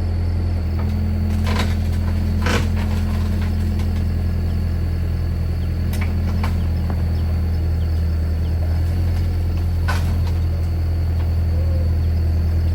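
Heavy engine idling steadily with a deep, even hum, and a few sharp knocks or clanks over it.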